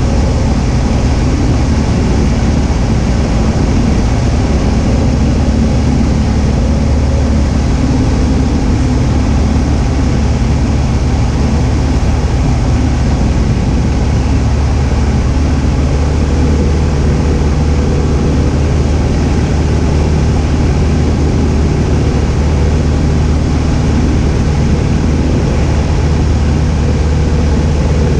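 Cessna 172H's Continental O-300 six-cylinder engine and propeller droning steadily in flight, its tone shifting slightly a little past halfway.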